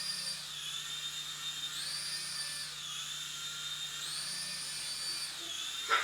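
Small electric rotor motors of a battery toy helicopter whining in flight, the pitch rising and falling about every two seconds as the motors speed up and slow down.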